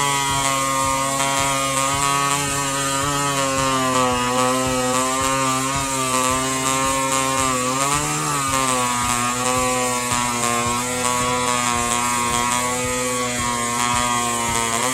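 Two-stroke chainsaw running steadily, its engine pitch wavering briefly about eight seconds in before settling again.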